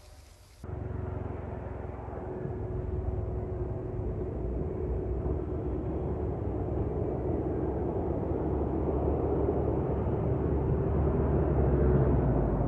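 A steady engine drone with a low rumble and a constant hum. It cuts in abruptly about half a second in and grows slowly louder.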